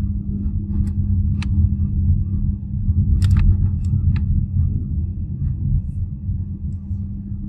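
BYD Atto 3 electric car driving slowly: road rumble with a steady low hum through it. This is the strange hum the owner hears between 20 and 32 km/h, on top of the car's pedestrian safety sound. A few sharp clicks come between about one and four seconds in.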